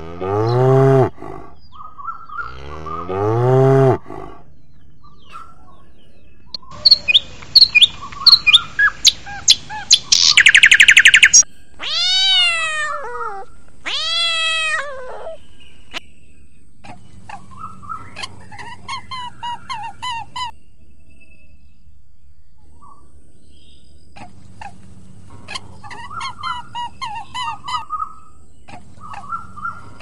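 Cattle lowing, two moos, followed by a run of bird calls: loud sharp clicks and a rattling trill, two long falling whistles, then bursts of quick repeated chirps.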